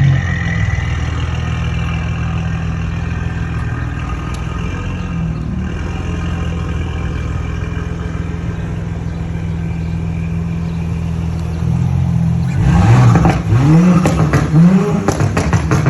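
2021 Audi S5 Sportback's turbocharged V6 through a straight-piped exhaust, running steadily, then revved three or four times near the end with the pitch rising and falling, and sharp pops among the last revs.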